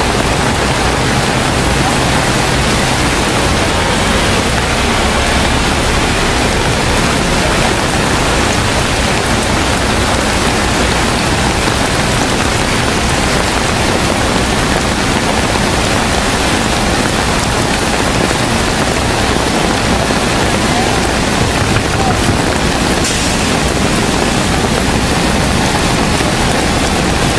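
Heavy rain pouring down: a loud, steady hiss of water.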